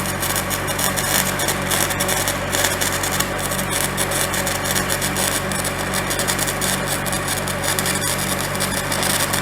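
Stick welding arc crackling steadily over the steady drone of an engine-driven welder; the arc cuts off abruptly at the very end, leaving only the welder's engine.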